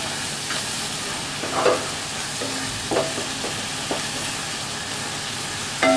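Spice masala of tomato purée and chilli powder sizzling in mustard oil in a nonstick kadai while it is stirred with a wooden spatula, with a few short scrapes of the spatula against the pan. The masala is being fried down until the raw spice smell is cooked out.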